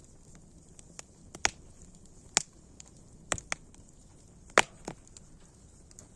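Wood fire crackling: irregular sharp pops and snaps, the loudest about four and a half seconds in, over a faint steady hiss.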